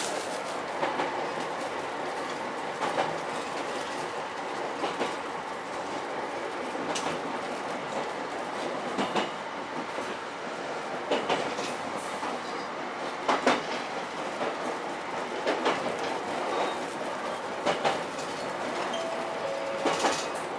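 Ichibata Electric Railway 7000-series electric train running along the line, heard from inside the car: a steady rolling noise with sharp wheel clacks over rail joints every one to two seconds, and a brief steady tone near the end.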